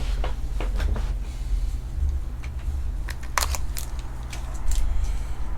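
Trading cards and pack wrappers being handled: scattered short clicks and snaps of card stock, several close together about three seconds in, over a steady low hum.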